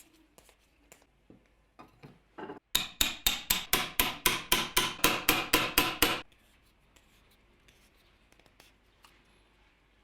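A hand tool worked on wood in a quick, even run of strokes, about five a second for some three and a half seconds, with a few light knocks before it.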